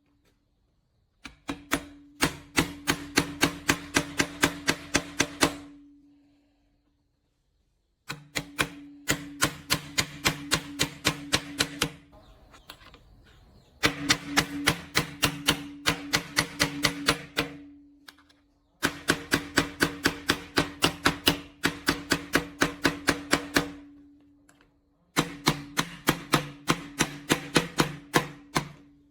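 Rapid, even knocking, about four sharp strikes a second, in runs of several seconds broken by short pauses, with a steady low hum under each run.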